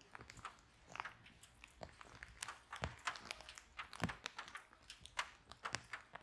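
Wood fire crackling in a fireplace, with irregular sharp pops and snaps several times a second.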